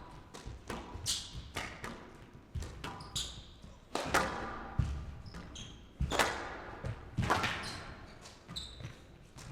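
Squash rally: the ball cracks off rackets and smacks against the court walls in an irregular series of sharp hits, with shoes squeaking on the court floor between strokes.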